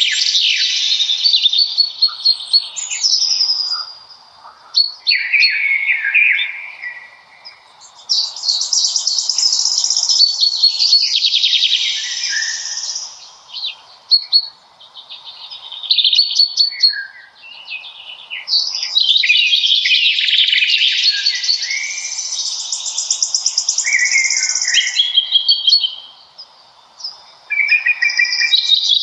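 Songbirds singing: long, busy phrases of rapid high-pitched notes lasting a few seconds each, following one another with short gaps, sometimes overlapping.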